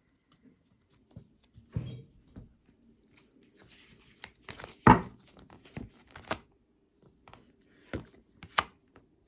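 Tarot cards being handled and drawn from the deck: scattered paper rustles, slaps and clicks, the loudest a sharp snap about five seconds in.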